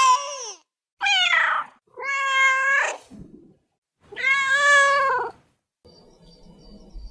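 Domestic cat meowing: the end of one meow, then three more separate meows, the first falling in pitch and the last the longest.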